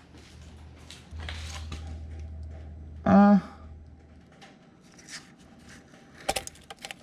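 A man's short hummed vocal sound about three seconds in, over a low steady hum. Several sharp clicks follow near the end, from hands and tools working on the engine parts.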